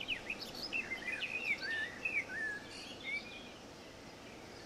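Songbirds chirping: a quick run of short chirps and sliding whistled notes for about three seconds, then only a faint steady outdoor background.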